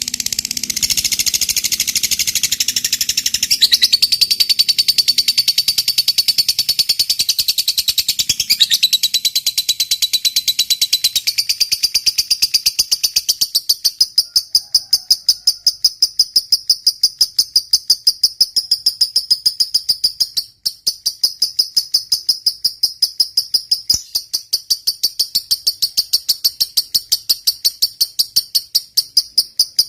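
Lovebird's long unbroken 'ngekek' chatter: a rapid string of high, sharp notes. It is dense and full for the first dozen seconds, then settles into a steady pulse of about four notes a second.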